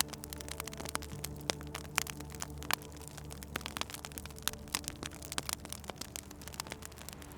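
Wood fire crackling, with frequent sharp, irregular pops over a low steady hum.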